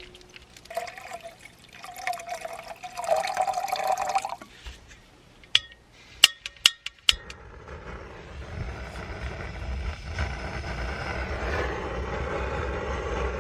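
Water poured into a Jetboil camp stove's cup, then about five sharp igniter clicks, after which the gas burner catches and runs with a steady hissing rush.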